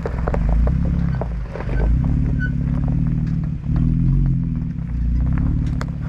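Jeep engine running at low speed while it moves the hitched teardrop trailer into place, its low rumble swelling and easing several times, with scattered short crackles over it.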